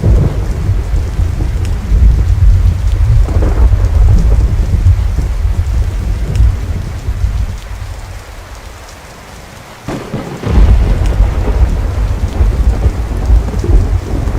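Thunderstorm: steady rain falling under heavy, rolling thunder. The rumble dies away about two-thirds of the way through, then a fresh thunderclap breaks in with a sharp crack and rolls on.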